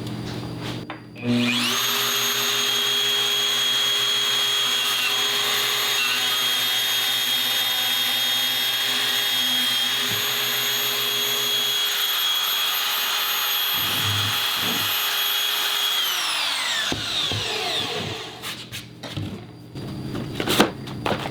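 Electric motor of a Mafell power tool spinning up about a second in, running steadily with a high whine for about fifteen seconds, with a couple of knocks near the end, then winding down.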